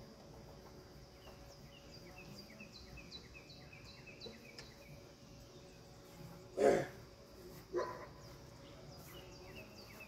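Outdoor ambience with a bird chirping a quick series of short, high, falling notes, about three a second. Near the end comes one loud short call, then a shorter, fainter one about a second later.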